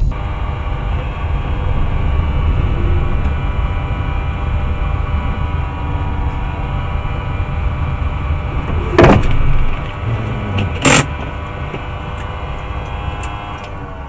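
A car's road rumble and engine hum as heard from inside the cabin, then two sharp loud bangs, about nine and eleven seconds in: a collision.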